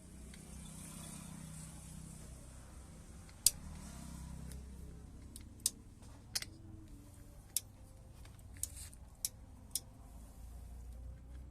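Sharp separate clicks and taps of small metal parts and hand tools being handled during a table-fan bearing repair, about seven over several seconds, the loudest about three and a half seconds in, over a low steady rumble.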